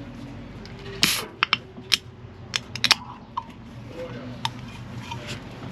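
A drink can opened: a sharp pop with a short fizz about a second in, followed by several light clicks and taps.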